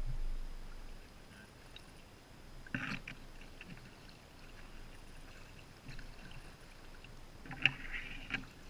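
Kayak paddle working the water: a splash with dripping about three seconds in and another near the end, with faint water noise between.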